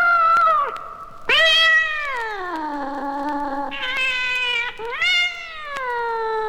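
Cats yowling: a run of long, drawn-out wails, mostly sliding down in pitch, coming one after another with short breaks between.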